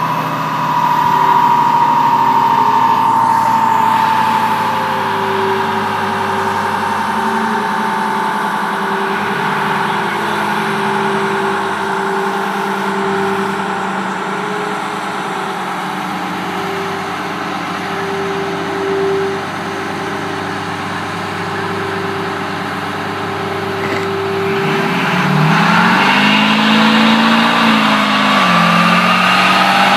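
Duramax diesel pickup running on a chassis dynamometer, its wheels spinning the rollers. A high whine winds slowly down over the first several seconds and a steady hum holds through the middle. About 25 seconds in the engine revs up and the whine climbs again as another pull begins.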